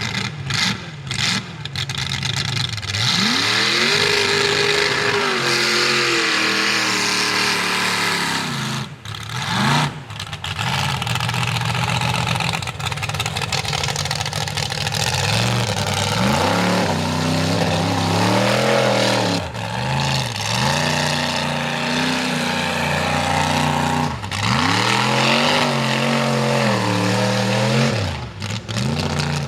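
Big mud-bog mega truck engine revving hard again and again, its pitch swelling up and falling back several times, with a few brief drops in between.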